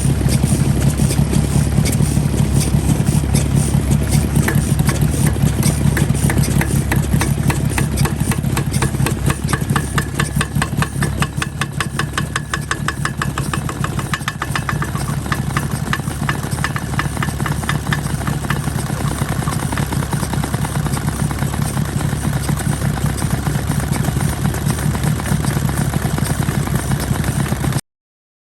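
Vintage Yanmar K1 single-cylinder diesel stationary engine running steadily after start-up, with an even beat of firing strokes. The sound cuts off suddenly near the end.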